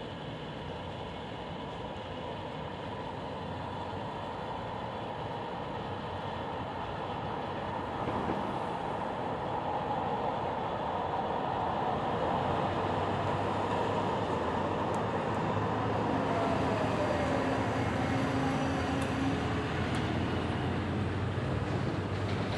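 Los Angeles Metro light rail train running through the station, its rumble slowly growing louder as it comes closer, with a falling motor whine about two thirds of the way in.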